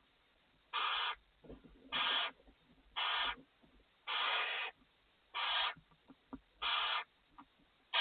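Barn owl in the nest box repeating its hissing 'snore' food-begging call, about once a second, each call about half a second long, with faint small clicks between calls.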